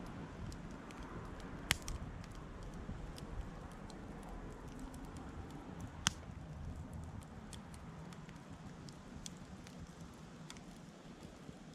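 Campfire crackling: scattered sharp snaps and pops of burning wood over a low, steady background noise, with two louder pops, one about two seconds in and one about six seconds in.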